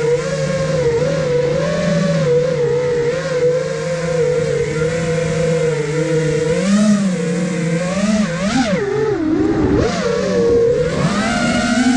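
iFlight Nazgul Evoque F5, a five-inch FPV quadcopter, in flight: its brushless motors and propellers whine, the pitch wavering with the throttle. A little past halfway the pitch drops sharply and then climbs back, as the throttle is chopped and punched again.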